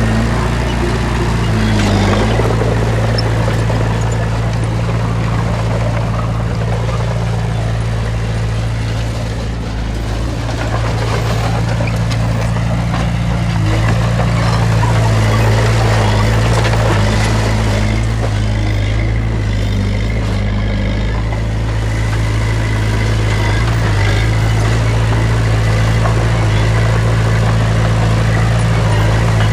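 Heavy diesel engine of earthmoving machinery running steadily under work. It eases off briefly about ten seconds in, then picks up again a few seconds later.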